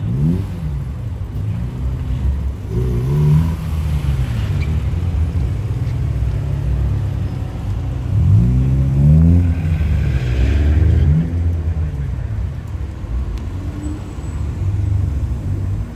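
Car engine revving several times, its pitch rising and falling in short blips over a steady low engine rumble, with the strongest revs a little past the middle.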